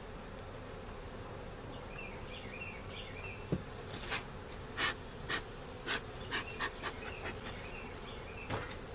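Honeybees humming steadily from an open hive with frames full of bees. A string of short, sharp hissing noises comes through from about four seconds in, with one more near the end.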